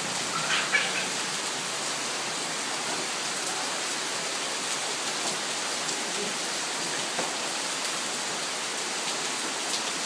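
Heavy rain falling steadily: a dense, even hiss with scattered drop ticks. A brief high-pitched sound rises over it about half a second in.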